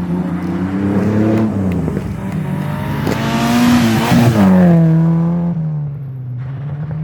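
Rally car engine revving hard and changing gear as the car passes close, loudest about four seconds in, then the engine note drops away. A steady low engine drone runs underneath.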